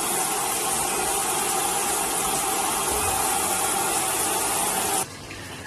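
Midea top-loading washing machine filling with water: a steady rushing hiss of water pouring into the drum with a faint steady whistle, cutting off suddenly about five seconds in as the fill stops.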